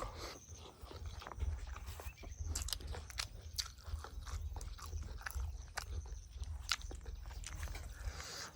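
A person eating close to the microphone: chewing, with many sharp irregular clicks and crunches.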